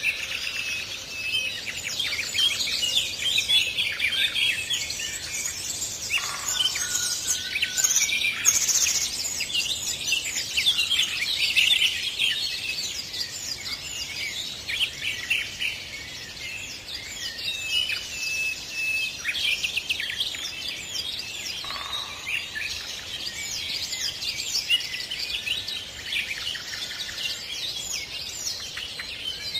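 Many small birds singing and chirping at once, a dense overlapping chorus of short high calls and trills.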